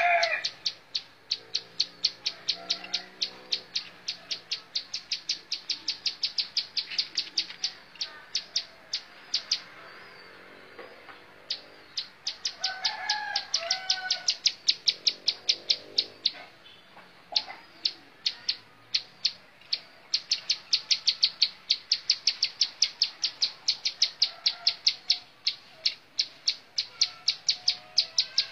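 Plain prinia (ciblek sawah) singing: a long series of sharp, rapid repeated notes, about three or four a second, that pause briefly near the middle and then resume. A rooster crows faintly in the background.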